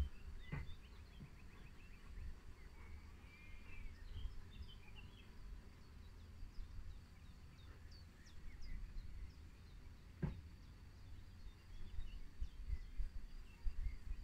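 Outdoor ambience: small birds chirping and trilling in short scattered phrases over a steady high insect drone and a low rumble. There are two soft knocks, one near the start and one about ten seconds in.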